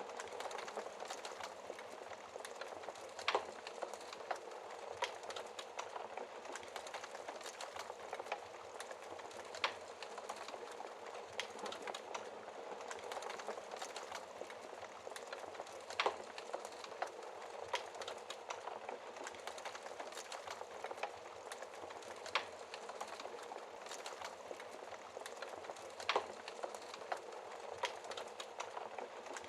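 Log fire in a fireplace crackling: a steady hiss of burning wood with frequent small crackles and about five louder, sharper pops spaced several seconds apart.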